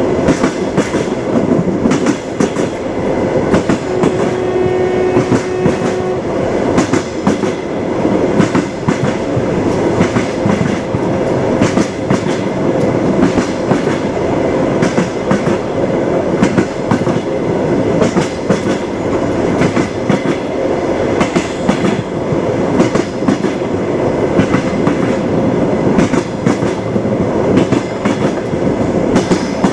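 Train wheels clattering steadily over the rail joints, a continuous clickety-clack with running rumble. A brief steady tone sounds for a couple of seconds about four seconds in.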